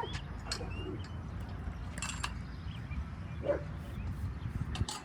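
A dog barking and yipping in short, scattered calls, the loudest about three and a half seconds in, over a steady low rumble.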